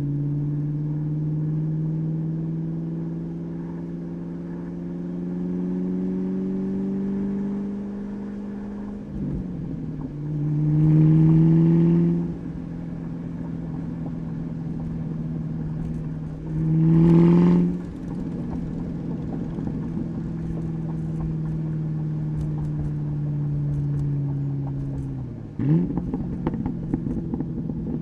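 A 2003 Ford Mustang SVT Cobra's supercharged 4.6-litre V8 through a Bassani catback exhaust, cruising with its note drifting slowly in pitch. Two short, loud bursts of throttle come a few seconds apart. Near the end there is a quick drop and rise in revs, like a gear change, followed by a run of sharp crackles.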